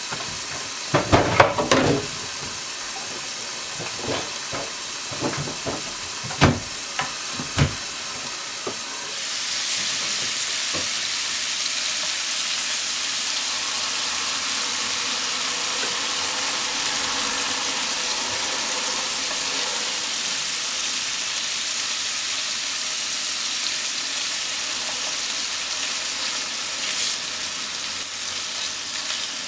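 Meat-wrapped potato sticks frying in oil in a frying pan: a muffled sizzle with a clatter about a second in and a few knocks, then from about nine seconds a louder, steady sizzle once the lid is off and chopsticks turn the rolls.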